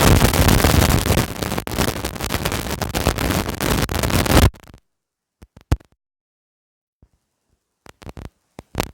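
Loud, steady rushing noise on the microphone that cuts off abruptly about four and a half seconds in, leaving near silence broken by a few faint clicks.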